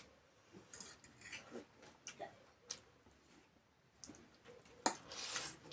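Small clicks and scrapes of eating at a plate, with a brief louder scrape near the end, against quiet room tone.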